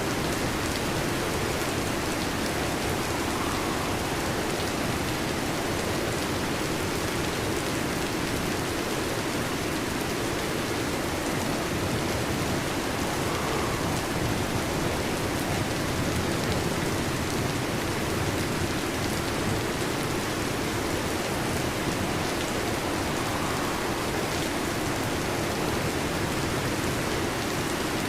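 Steady rain falling, a continuous even hiss that keeps the same level throughout, with no thunder.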